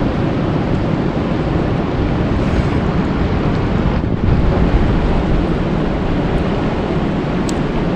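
Steady, deep rushing noise of natural ambience, swelling slightly about four seconds in.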